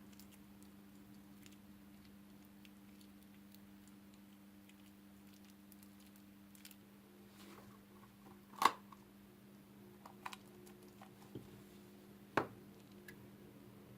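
Slime being squeezed and worked by hand: faint scattered clicks and crackles over a steady low hum, with two sharp pops, the first and loudest a little past halfway and the second a few seconds later.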